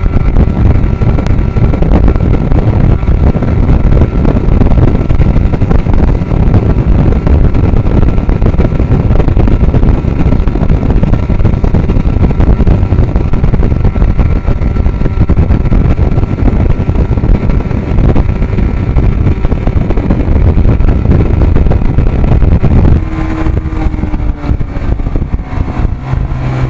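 Evinrude 55 hp outboard motor running at speed with the boat under way: a loud, dense, steady drone. About 23 seconds in it gets quieter, and a steadier engine note comes through.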